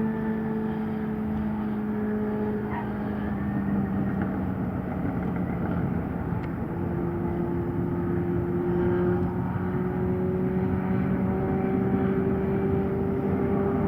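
Boeing 737-800's CFM56-7B jet engines running, heard from a distance: a steady hum under a rushing noise, with one tone rising slowly in pitch from about halfway through.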